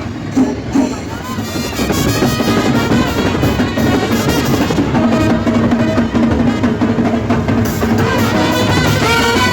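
Festival band music: a drum roll with snare and bass drum, with brass horns taking up a melody about two seconds in.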